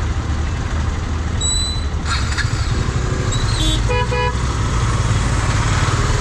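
Road traffic: a steady low rumble of engines, with vehicle horns honking, including a short double horn beep about four seconds in.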